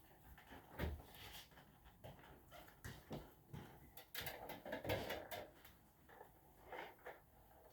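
Faint scattered kitchen clatter: light knocks and clinks, with a few soft thumps about a second in and again around the middle.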